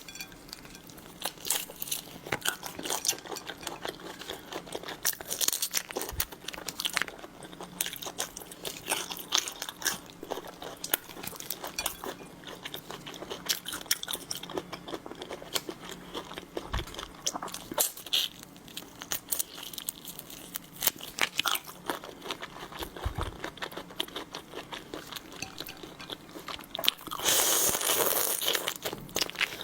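Close-miked eating of seafood: crunching, biting and chewing with many sharp clicks throughout. There is a louder, longer stretch of crunching noise near the end.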